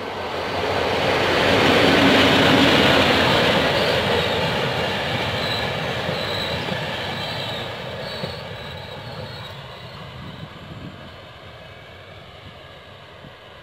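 A train passing close by. Its noise builds to a peak about two seconds in, then fades slowly as it draws away. A faint high-pitched wheel squeal comes partway through.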